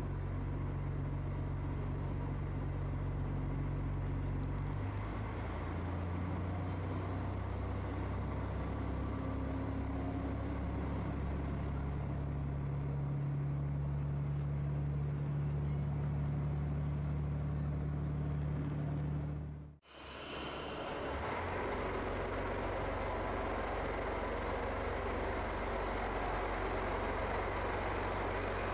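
A rail vehicle standing with its engine or motors running, giving a steady low hum that shifts in pitch a couple of times. About two-thirds of the way in, the sound cuts out abruptly and comes back as a broader, steadier rumble with more hiss.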